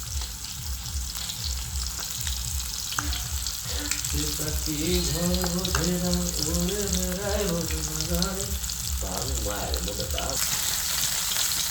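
Tilapia fish frying in hot oil, sizzling and crackling steadily.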